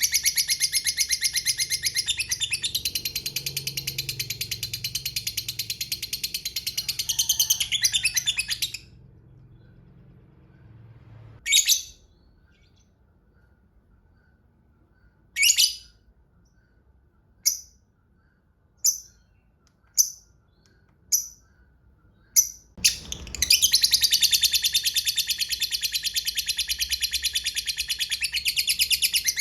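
Lovebird giving its long, fast, high chattering 'ngekek' trill, which breaks off about nine seconds in. Then comes a run of single sharp chirps one to four seconds apart, and near the end the long chatter starts up again.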